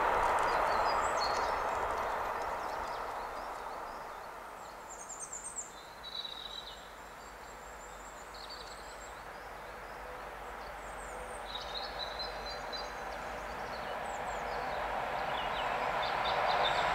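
Rumble of a freight train rolling over the rails, dying away over the first few seconds, with songbirds chirping throughout. From about ten seconds in, the rumble of an approaching freight train hauled by a Class 185 electric locomotive rises steadily.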